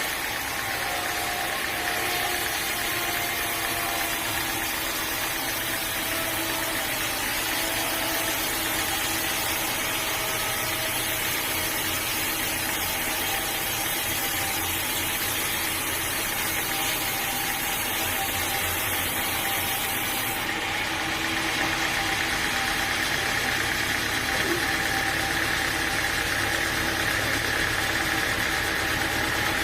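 Sawmill engine running steadily, its tone shifting slightly about twenty seconds in.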